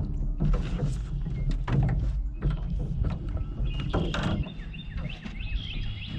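Wooden knocks and clunks in a rowboat over a low rumble of wind on the microphone, with high chirping calls of birds starting about halfway through.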